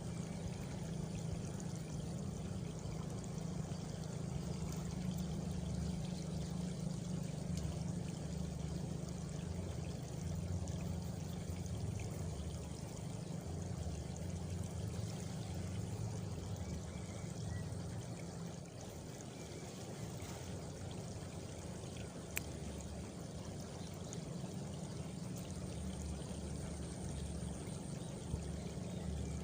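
Rural night ambience: a chorus of crickets and frogs over a steady rushing, water-like noise. A faint high cricket trill stands out at the start and again near the end.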